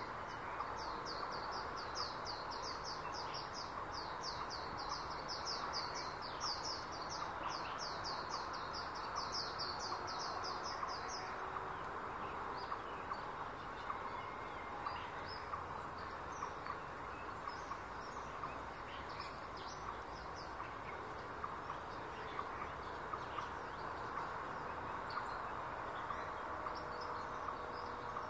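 Forest birdsong: a bird gives a fast run of short, high, down-slurred notes, several a second, for about the first ten seconds, then scattered high chirps follow. A steady high-pitched insect drone runs underneath.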